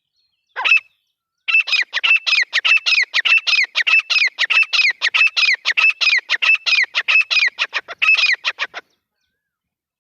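Grey francolin calling: one short note, then a fast run of loud repeated notes, about five a second for some seven seconds, stopping abruptly.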